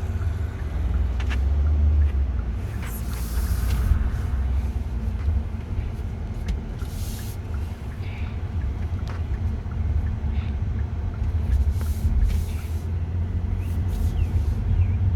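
Low, steady rumble of a car heard from inside the cabin, with scattered light clicks and a few short hissing bursts.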